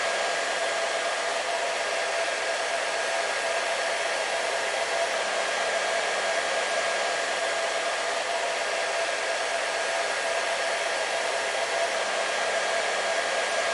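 Hair dryer running steadily: an even rushing of air with a constant motor whine, no change in speed or level.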